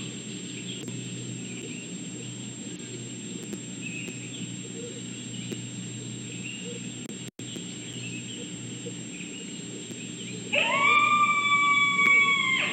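Red wolf howling: a single howl starts about ten seconds in, rising quickly and then holding a steady pitch for about two seconds. Before it, only faint chirps over a steady background hiss.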